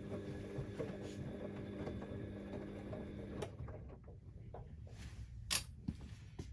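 Siemens Extraklasse XLs 140 A washing machine in its 60 °C cottons stain wash: the drum motor's steady hum stops about three and a half seconds in, then a few soft knocks and one sharp click near the end as the drum rests.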